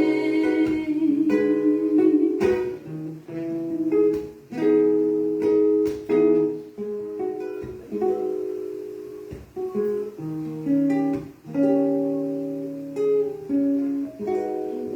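Acoustic guitar playing an instrumental passage of a gospel song: chords struck about once a second, each left ringing, with picked single notes between them.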